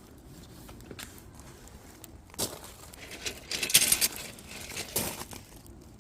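Firewood burning in a campfire, crackling with scattered sharp pops and a dense flurry of crackles about halfway through.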